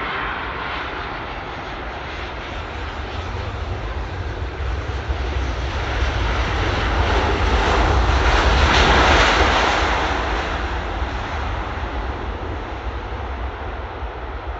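Jet airliner passing by, its engine noise swelling to a peak about nine seconds in and then fading away, over a deep rumble.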